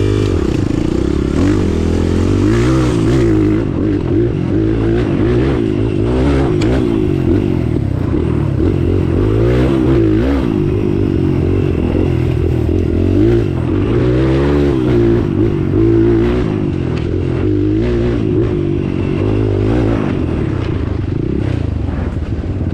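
Off-road vehicle engine revving up and down again and again under load as it crawls over a rough, rutted trail, with scraping and clattering knocks from the vehicle bumping over the ground.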